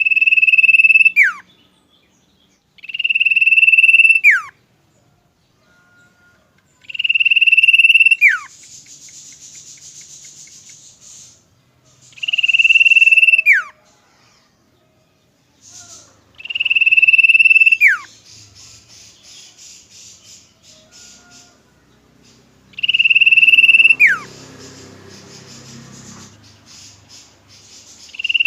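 Common iora (cipoh) singing: a long, steady high whistle that ends in a quick falling slur, repeated about every four to six seconds. Softer buzzy rattling chatter follows some of the whistles.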